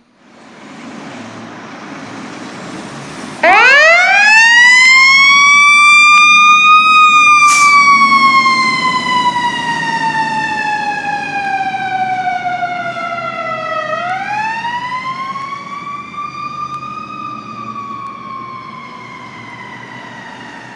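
Fire engine responding with its siren. For the first few seconds only the truck's engine and road noise are heard. About three and a half seconds in, the siren winds up sharply and then slowly falls, winds up again about two-thirds of the way through, and falls away near the end.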